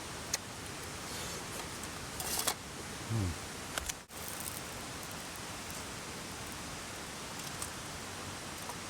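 Steady rushing of a mountain stream, with a few light clicks and knocks from handling camp tableware.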